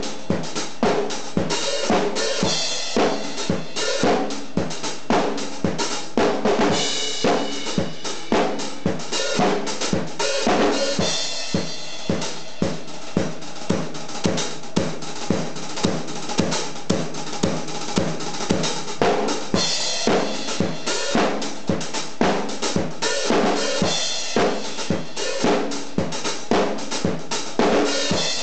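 Rock drum kit played in a steady, busy groove, with several strikes a second and cymbals ringing over them.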